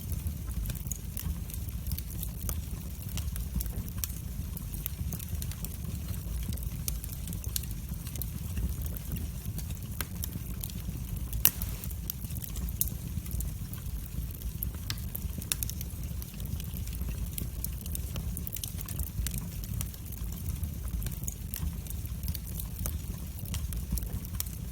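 Wood fire burning in a fireplace: a steady low rumble of the flames with frequent sharp crackles and small pops, and one louder pop about halfway through.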